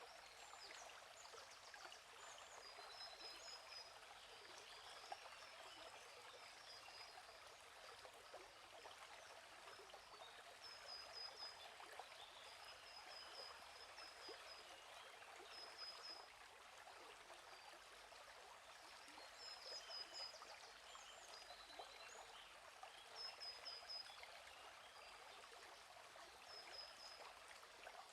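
Faint flowing stream, a steady trickling rush, with a small bird's short high chirps repeating in quick runs every few seconds.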